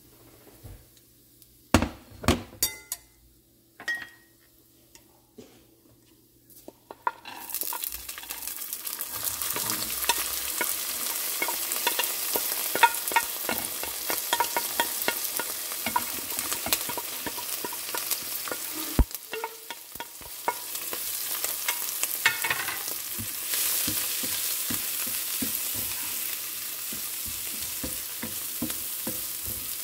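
A few sharp knocks, then from about seven seconds in a steady sizzle of dried shrimp and peas frying in hot oil in a nonstick pan, with the rapid clicks and scrapes of a wooden spatula stirring them. The sizzle drops briefly about two-thirds of the way through and then picks up again.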